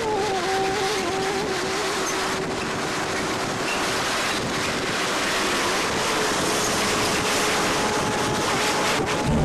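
Steady rushing noise, with a single thin tone that wavers at first and then holds.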